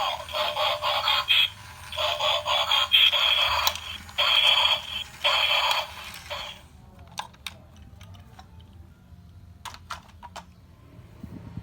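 Battery-powered toy police car playing tinny electronic sound effects through its small speaker in a string of short bursts. The sound effects stop about six and a half seconds in, leaving a few faint clicks.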